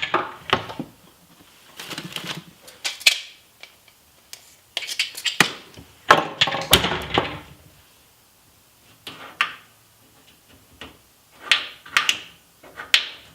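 Irregular clicks, knocks and short scrubbing scrapes of a microwave being wiped clean and handled, in bursts with short pauses.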